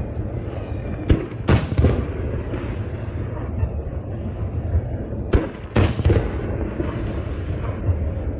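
Aerial firework shells bursting: a few sharp booms about a second in, and two more a little past the middle, each followed by a rumbling echo, over a steady low rumble.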